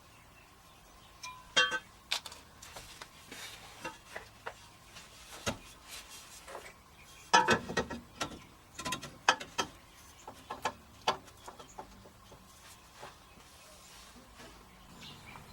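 Tools and metal exhaust parts being handled, giving irregular metallic clinks and knocks, with a denser run of louder knocks about halfway through.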